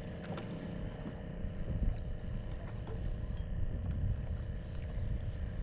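Wind buffeting the microphone as a low rumble, with a faint steady hum underneath and a few light clicks.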